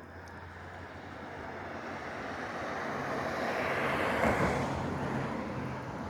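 A motor vehicle passing, its engine and road noise building steadily to a peak about four seconds in, then easing off.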